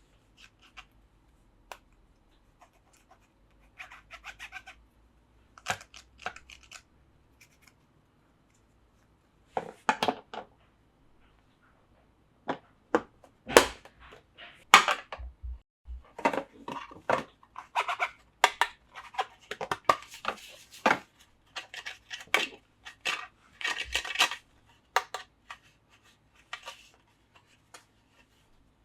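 Plastic Plarail toy track and train parts being handled and fitted together: irregular clicks, scrapes and small rattles, sparse at first and much busier in the second half.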